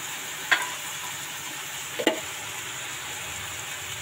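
Chicken pieces frying in a kadai, a steady sizzling hiss, with two short knocks about half a second and about two seconds in.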